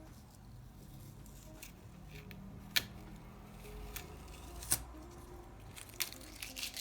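Scattered sharp clicks from art supplies being handled on a desk: four or five short snaps spread over the seconds, the last few close together near the end, over a faint low hum.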